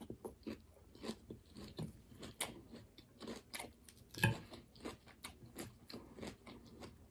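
Close-up chewing of a mouthful of raw garden salad with red cabbage: irregular soft crunches, with one louder crunch a little past four seconds in.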